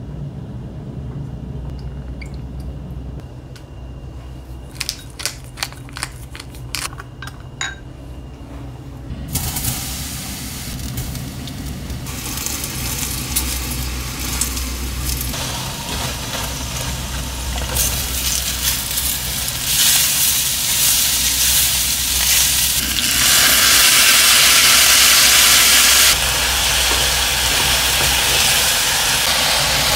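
A few light clinks of a wooden spoon against a glass bowl as a sauce is mixed, then starch-coated mushrooms sizzling in hot oil in a cast iron skillet, later stir-fried with onions; the sizzle builds and is loudest for a few seconds past the middle, over a low steady hum.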